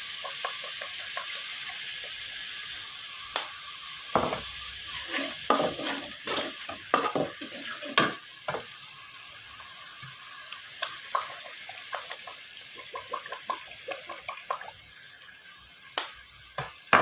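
Onion and ginger sizzling in hot oil in a metal wok with sweet soy sauce just added, the sizzle slowly dying down, while a metal spatula scrapes and clinks against the pan as it stirs.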